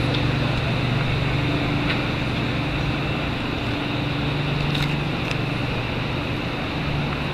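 Fire apparatus diesel engine running steadily at idle, with a couple of faint clicks about five seconds in.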